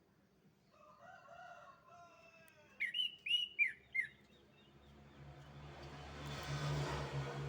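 A canary singing: a soft warbling phrase, then four loud, sharp chirps. From about halfway through, a rushing noise with a low hum swells and becomes the loudest sound.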